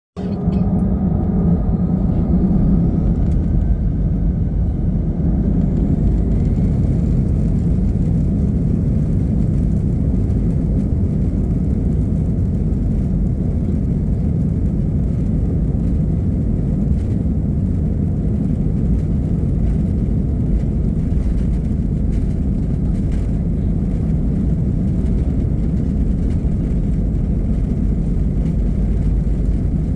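Airbus A320 jet engines spooling up for takeoff, with a whine that rises over the first few seconds, then a steady loud rumble as the aircraft accelerates.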